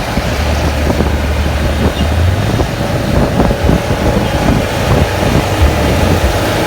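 Kubota L4708 tractor's diesel engine running steadily, with wind buffeting the microphone.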